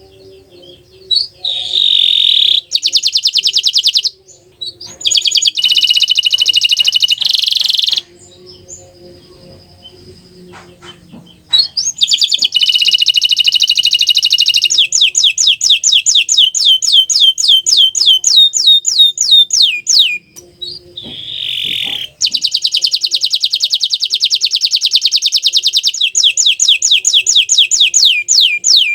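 Green canary singing in long phrases of fast trills and quickly repeated down-slurred notes, several a second, with short pauses between phrases.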